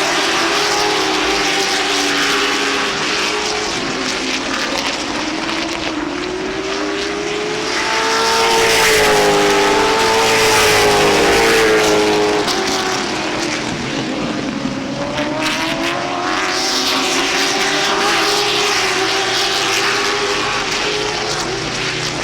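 A pack of late model stock cars racing on an oval, their V8 engines rising and falling in pitch as they run through the turns and down the straights. The sound is loudest from about eight to twelve seconds in.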